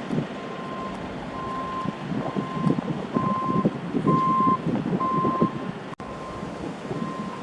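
Vehicle reversing alarm beeping a single steady tone about once a second, over low street rumble and wind.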